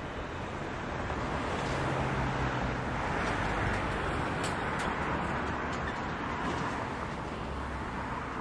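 Freight train noise: a steady rushing rumble that swells for several seconds and then eases, with a short low hum near the start and a few sharp clicks in the middle.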